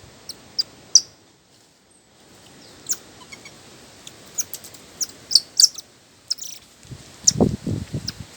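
Small birds chirping in short, high, scattered calls. Near the end comes a quick run of several low thumps.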